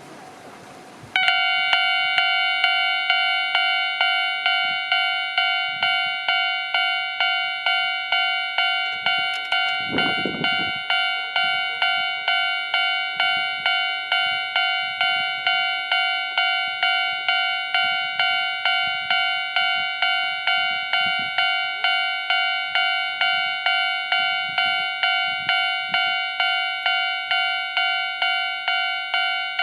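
Japanese railway level-crossing warning bell starting up about a second in and ringing on in a fast, even ding-ding rhythm, warning that a train is approaching. A brief low rumble passes around ten seconds in.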